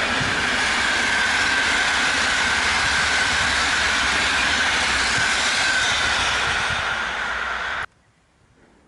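A train passing close by: loud rushing of wheels on rail with a steady high whine over it, stopping abruptly about eight seconds in.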